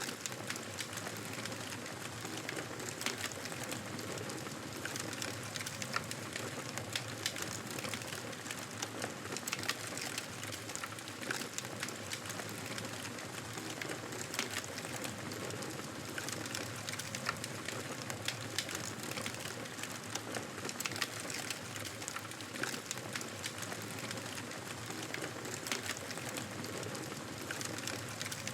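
Wood fire burning in a fireplace: a steady hiss of flames with frequent sharp, irregular crackles and pops.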